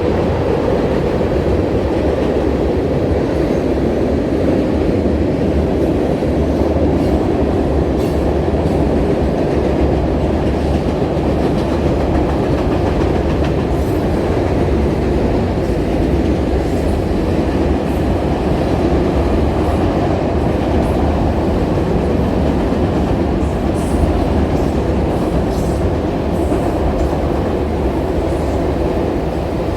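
Train cars rolling steadily past on the track, a continuous heavy rumble with wheels clicking over the rail joints.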